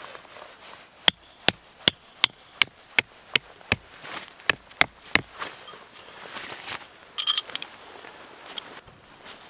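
A run of about eleven sharp, evenly paced hammer strikes, roughly two or three a second, driving a tent stake in while pitching a tent, followed a couple of seconds later by a brief metallic jingle.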